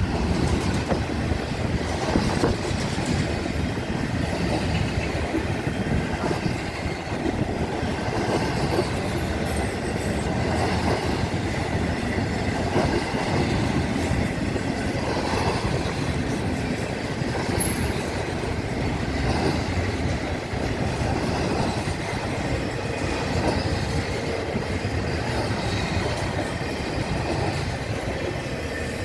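Florida East Coast Railway freight cars rolling steadily over a railroad grade crossing: wheels clacking on the rail joints, with some wheel squeal, and the crossing's mechanical bells ringing.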